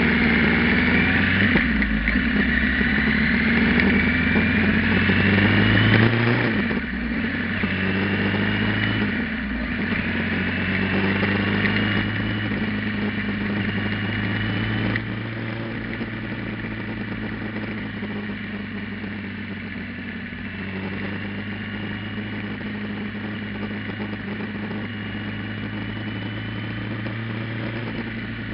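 Kawasaki GPZ900R's inline-four engine, with an aftermarket muffler, pulling with its note rising and breaking twice at gear changes in the first ten seconds. It then runs at a steady, lower, even drone.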